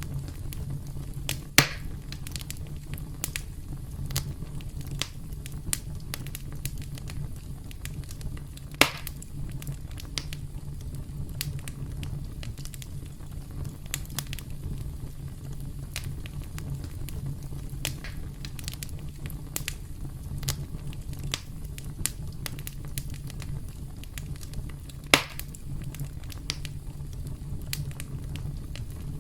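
Campfire burning steadily with a low rumble and frequent irregular crackles and pops from the burning wood, three pops sharper and louder than the rest, about a second and a half in, nine seconds in and near the end.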